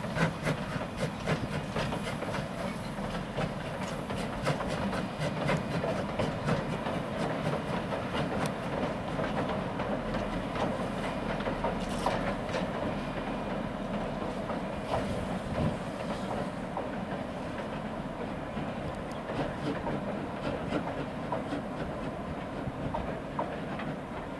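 Passenger carriages of a steam-hauled train rumbling steadily across a steel trestle bridge, their wheels clicking over the rail joints.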